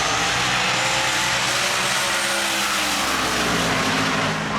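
Drag race car engines at full throttle during a pass, loud and steady, with the engine pitch slowly climbing.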